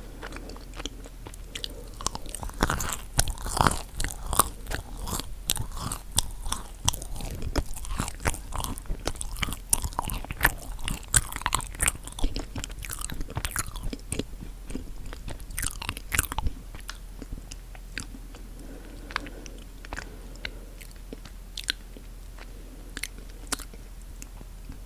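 Close-miked chewing of a chocolate-coated marshmallow cookie: crisp crunches and sharp mouth clicks, busiest for the first two-thirds and sparser and softer near the end.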